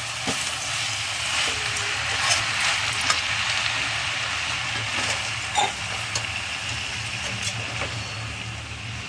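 Chilli chicken sizzling in its sauce in a metal kadai on the stove: a steady hiss, with a few light clicks of a ladle against the pan. Under it runs a steady low hum.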